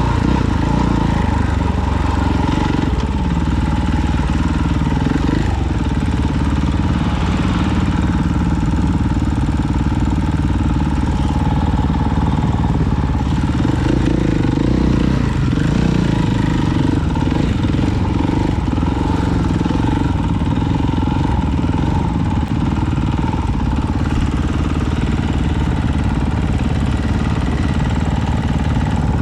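Off-road vehicle engine running continuously while riding, with small changes in throttle and a steady rush of noise above it.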